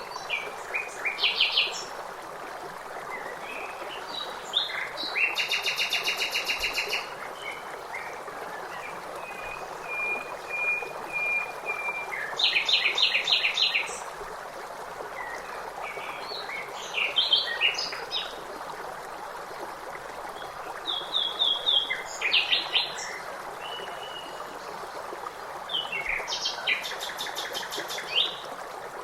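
Songbirds singing in separate short phrases of chirps, fast trills and whistled notes every few seconds, over a steady rush of flowing water.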